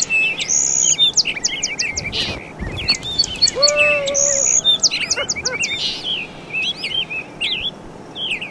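Birds chirping and calling: a busy run of short high chirps and quick rising and falling notes, with one longer, lower held call a few seconds in.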